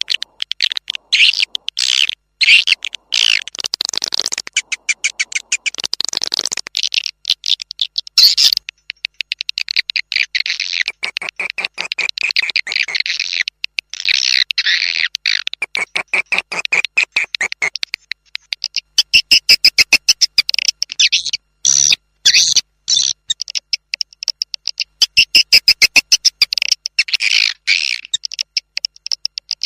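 Swiftlet lure recording: fast trains of swiftlet twittering and chittering calls, repeated in bursts with short breaks. This is the call playback used to attract swiftlets to nest in a swiftlet house.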